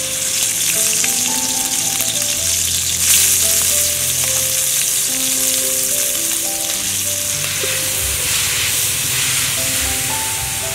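Pounded curry paste with snail meat frying in hot oil in a wok: a steady loud sizzle, briefly louder about three seconds in, with a spatula stirring.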